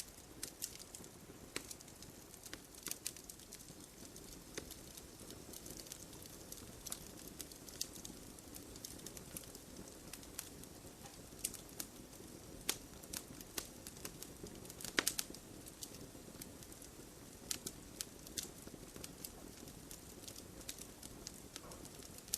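Wood fire burning in a fireplace: a soft low rush of flames with irregular sharp crackles and pops from the logs, a quick cluster of louder pops about two-thirds of the way through.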